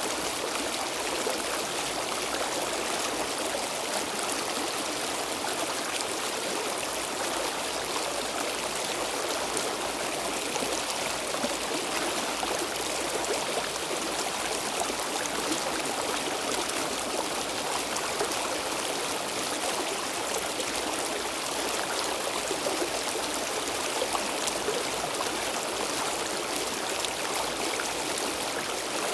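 Stream water flowing steadily over rocks, a continuous rushing and trickling.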